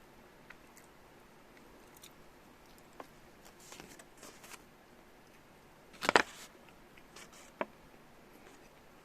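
Quiet room with small handling noises while eating at a table: faint clicks and soft rustles, and one louder clack about six seconds in, followed by a single sharp tick a moment later.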